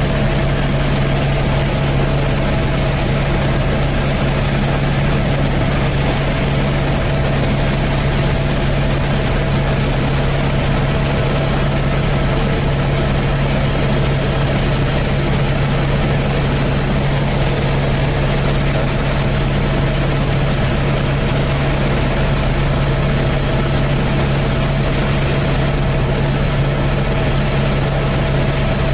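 Helicopter in flight: steady, unchanging rotor and engine noise with a strong low hum and a fainter higher tone.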